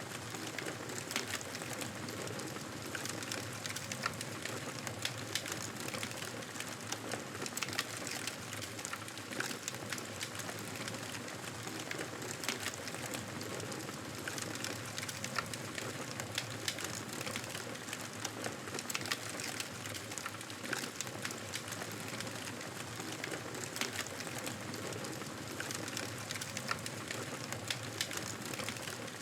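Fireplace fire crackling: a steady hiss with frequent small, irregular pops and snaps.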